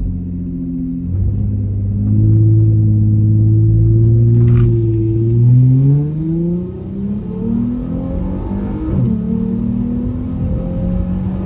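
Dodge Charger's 3.6-litre Pentastar V6 running steadily under light throttle, then revving up about five and a half seconds in. The pitch drops back, then slowly climbs again as the car pulls away.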